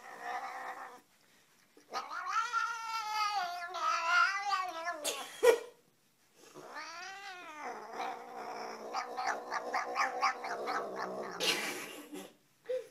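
A cat yowling: two long, drawn-out cries with a wavering pitch, the second breaking into a fast pulsing stutter. A short sharp knock comes between them.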